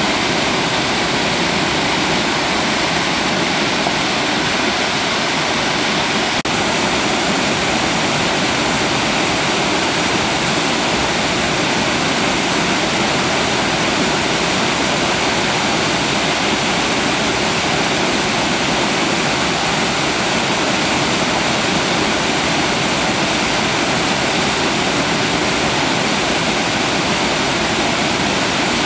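Steady rush of a waterfall, a loud even roar of falling water.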